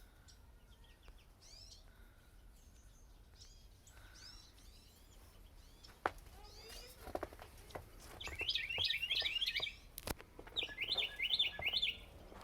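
Small birds chirping, with two runs of rapid, repeated high chirps about eight and ten and a half seconds in, and a few sharp clicks between them.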